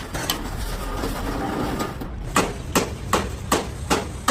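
Hammer blows struck at a steady pace, about two or three a second, starting about halfway through after a quieter moment.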